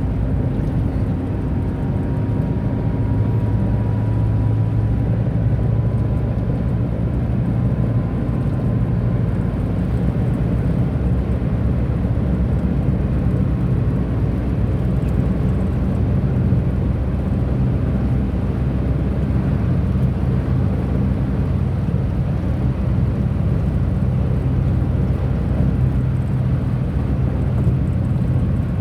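Tata Nano's small two-cylinder petrol engine running steadily at speed, with road and tyre noise, heard from inside the cabin.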